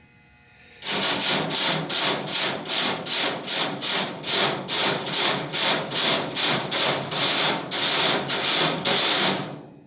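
A fine wire brush scrubbing back and forth over a truck's metal grille screen, starting about a second in, at about three strokes a second. It is scouring off discoloration.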